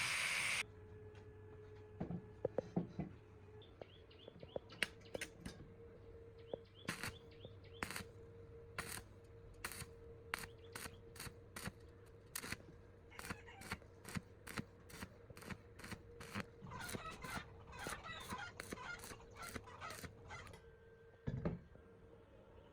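Hand-tool work on small parts: a series of sharp clicks and taps, some with a scraping rattle, irregular and several to the second at times, over a faint steady hum. A louder sound cuts off suddenly under a second in.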